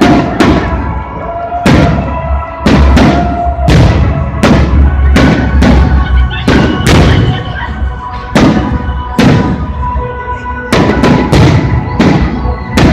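Fireworks bursting in a rapid barrage, roughly one or two sharp bangs a second, over music playing steadily underneath.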